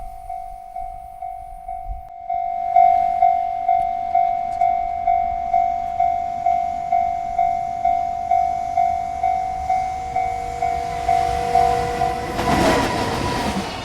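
Railroad crossing bell ringing steadily, about two strokes a second, louder from about two seconds in. Near the end the noise of a freight train arriving at the crossing swells up under the bell.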